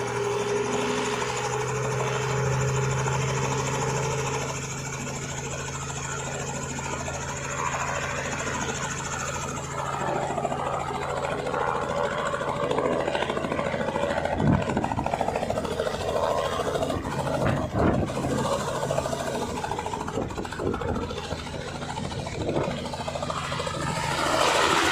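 A vehicle engine running steadily, with a constant low hum. From about ten seconds in it turns rougher, with scattered knocks and rattles.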